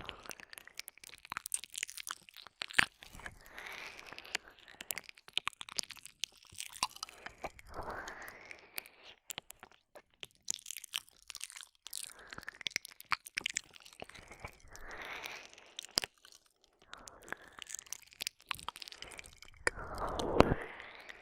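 Close-up mouth sounds: wet licking and sucking on a binaural microphone's ear, with many sharp lip and tongue clicks and a longer slurping sweep every few seconds, the loudest near the end.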